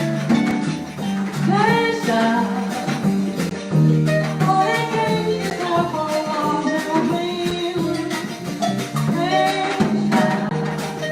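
Live Brazilian jazz played by a small band with harp: a steady bass line, a singing voice and percussion keeping an even rhythm.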